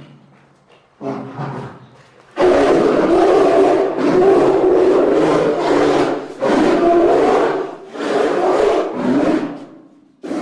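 A large animal calling: a short call about a second in, then a loud run of long, low calls with brief breaks between them, fading near the end.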